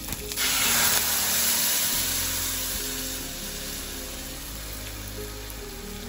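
Ground tomato paste poured into hot oil with a tempering of mustard seeds, dried red chillies and curry leaves, setting off a loud sizzle about half a second in that slowly dies down to a steady, quieter sizzling.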